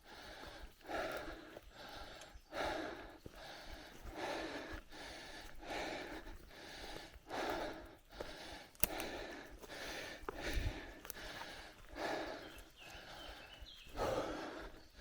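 A cyclist breathing heavily and rhythmically while pedalling, about three breaths every two seconds, with a sharp click about nine seconds in.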